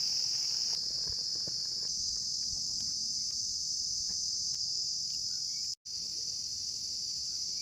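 Crickets chirping in a steady high-pitched chorus, with a few faint ticks; the sound cuts out for an instant near the end.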